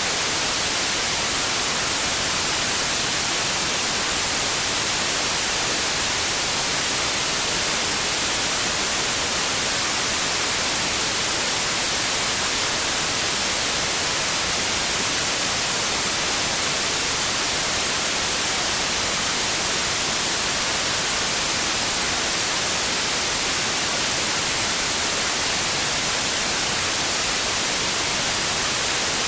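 Steady, unchanging white noise: an even hiss, brightest in the treble, with no events or changes.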